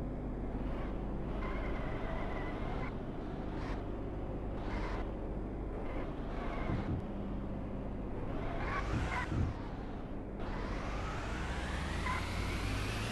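Car driving with a steady low road rumble; from about ten seconds in, a whine rises steadily in pitch as it speeds up.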